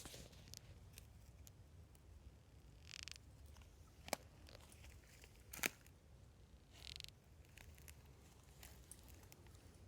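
Faint, short raspy hisses coming from a tree trunk, one about every four seconds, with scattered faint ticks between them; a source the uploader suspects is an insect. Two sharp clicks about a third and halfway through.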